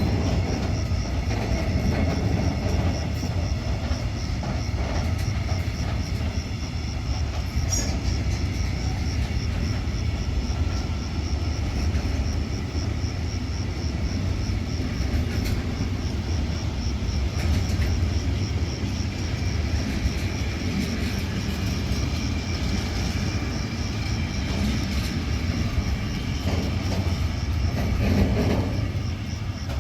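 A train rolling through the station, a steady rumble of wheels on rails that swells slightly near the end. Crickets chirp in a fast, even pulse over it.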